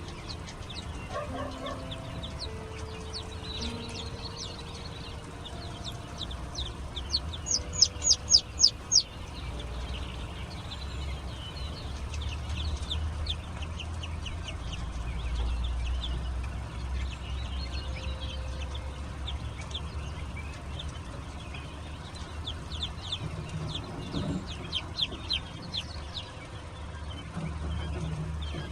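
Chicks and baby quail peeping: many short, high chirps throughout, with a loud run of about eight rapid peeps around the eight-second mark, over a low rumble.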